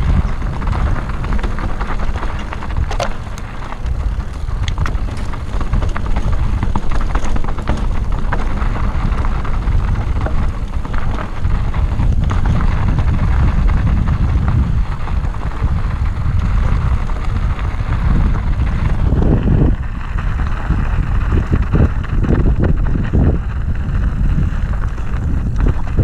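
Wind rushing over the microphone and a mountain bike rattling over a rough trail. A run of irregular knocks comes from the wheels and frame hitting bumps, starting about three-quarters of the way in.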